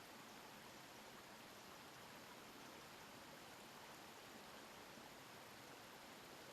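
Faint, steady babbling of a stream, an even rushing of water with no distinct events.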